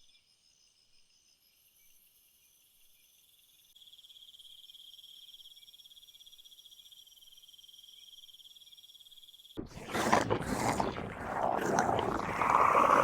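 Steady high-pitched insect chorus, then about ten seconds in a loud, harsh, rasping noise breaks in and dominates.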